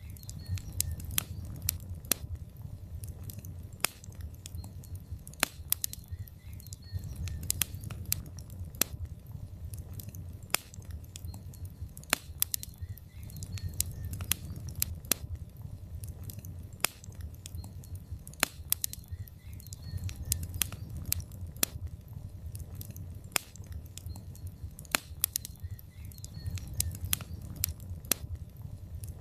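Wood fire crackling and popping in a fireplace: irregular sharp snaps from the burning logs over a steady low rumble of the flames that swells and eases every few seconds.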